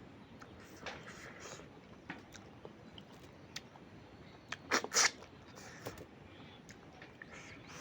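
Close-miked eating: chewing with scattered wet mouth clicks, and a louder cluster of crunchy bites about five seconds in.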